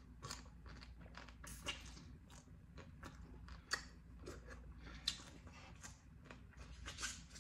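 Quiet, close-up chewing and wet lip-smacking as boiled blue crab meat is eaten, with many short clicks spread through.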